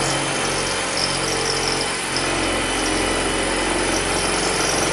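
Electric drill running steadily at full speed with a continuous motor whine.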